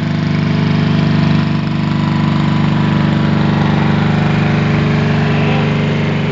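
Riding lawn mower engine running steadily, a little quieter from about a second and a half in.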